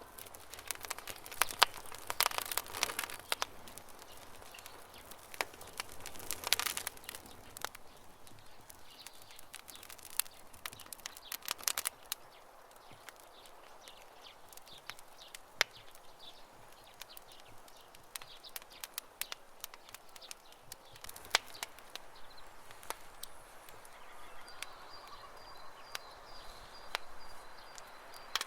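Wood in a campfire crackling and popping irregularly, with denser runs of crackles every so often. A bird chirps faintly in the background near the end.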